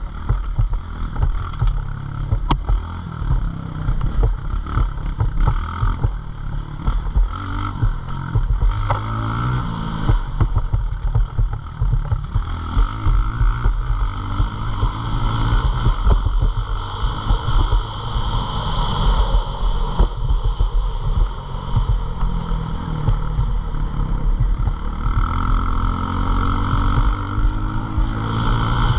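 Pit bike engine running and revving up and down, under a heavy low rumble with rattling and clatter. The engine pitch rises twice, about a third of the way in and near the end.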